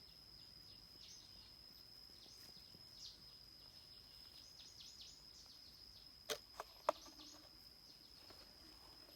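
Faint forest background: a steady high-pitched tone with small chirps over it, like insects and birds. Three sharp clicks come a little past the middle.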